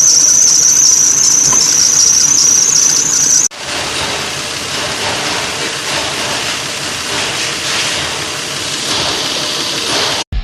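Car engine's drive belt squealing: a loud, steady high-pitched squeal over the running engine, the sound of a slipping belt. About a third of the way in it cuts off abruptly, and the engine runs on without the squeal, the belt quieted.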